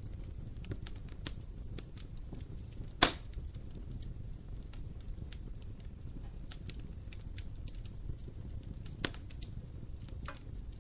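Wood fire burning in an open fireplace: irregular small crackles over a low steady rumble of the flames, with one sharp loud pop of the burning wood about three seconds in and a smaller one near the end.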